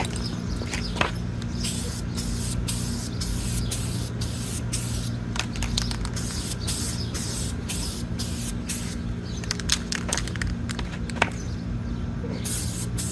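Aerosol can spraying green paint onto a helmet in a rapid series of short hissing bursts, with a few sharp clicks in between.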